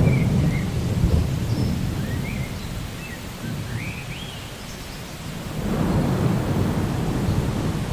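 Steady rain with low rolling thunder: one rumble at the start that fades over about two seconds, and another that swells up about six seconds in.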